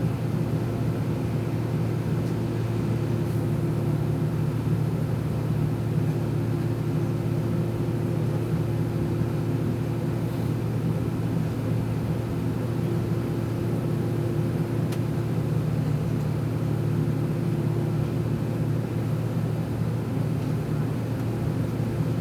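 Steady engine and airflow drone inside the cabin of an Airbus A319 airliner, a low hum with a faint steady tone above it and no change in pitch or level.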